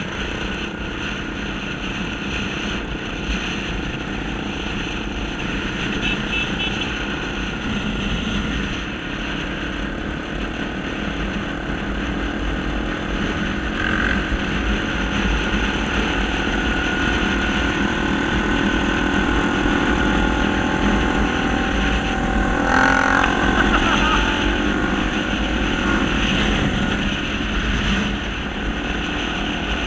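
Honda Tornado trail motorcycle engines running steadily while riding in mud.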